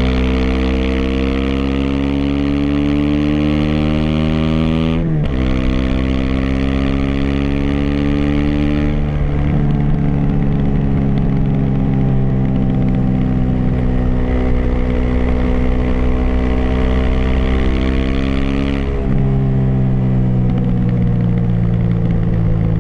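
Aprilia SX 125's single-cylinder four-stroke engine, breathing through an Arrow racing header and Arrow Thunder slip-on with the dB-killer fitted, pulling hard under way. Its pitch climbs, drops sharply at a gear change about five seconds in, and climbs again. It then holds a steady speed, with another drop in pitch near the end.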